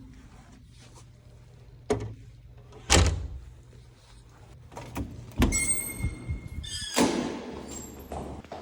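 A few separate knocks and thuds from things being handled or shut. About halfway through comes a brief clink with a short metallic or glassy ringing.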